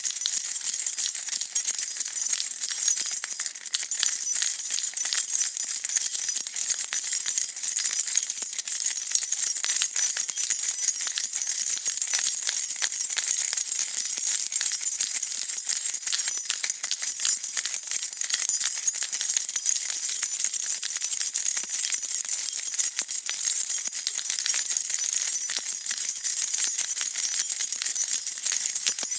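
A bunch of metal keys being shaken without a break, jingling and clinking against one another in a steady, dense rattle.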